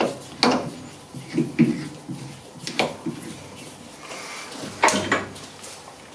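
Machined metal parts knocking and clinking together as they are handled and screwed together at the lathe: a few sharp clinks, the loudest near the start, about half a second in, near three seconds and near five seconds.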